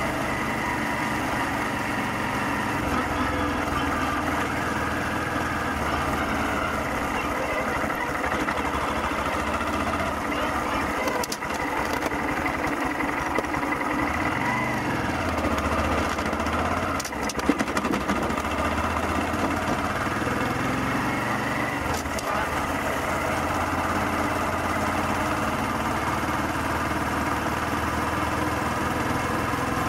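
Honda Grom's 125 cc single-cylinder four-stroke engine running steadily as the motorcycle is ridden, its revs dipping and climbing again once around the middle. A brief sharp knock about two-thirds of the way through.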